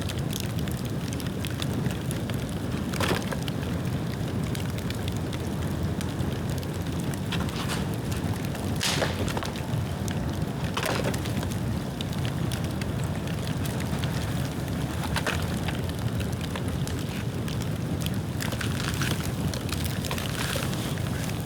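Bonfire of dead bamboo burning with a steady low rush and irregular crackling, broken by a few sharp pops as the bamboo splits in the heat.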